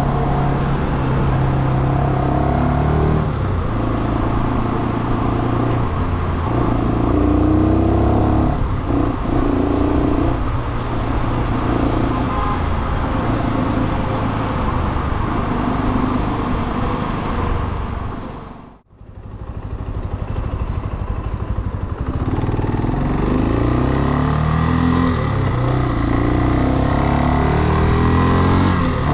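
Brixton Cromwell 250's single-cylinder engine running under way, its revs stepping up and down as it pulls and shifts through the gears. The sound fades out briefly about two-thirds of the way in, then returns with the engine revving up again.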